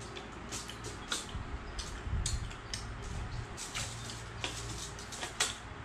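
Close-up eating sounds of people chewing fried chicken: irregular sharp clicks and smacks of the mouth, with no talking.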